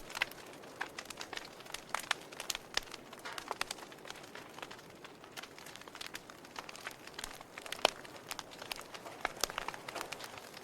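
Wood fire in a fireplace crackling, with irregular sharp pops and snaps over a soft steady hiss. One pop about eight seconds in is louder than the rest.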